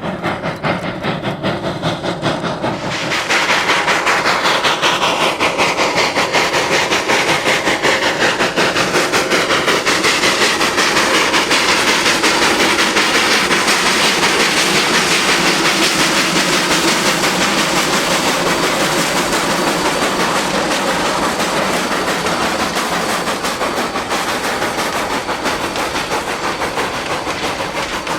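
Narrow-gauge 2-8-0 steam locomotive D&RGW 315 working a freight train past, its exhaust beating rapidly with the rolling of the cars. The sound comes in sharply about three seconds in, then slowly fades.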